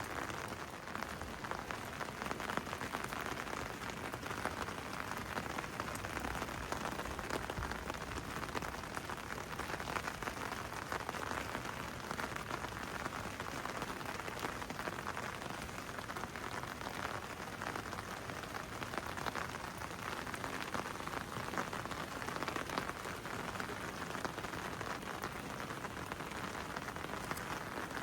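Steady rain falling, a dense patter of drops hitting hard surfaces.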